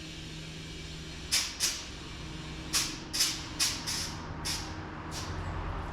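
Tyre inflator chuck on a car's tyre valve letting out about eight short hisses of compressed air over a few seconds as the low tyre is topped up. A steady low hum runs underneath.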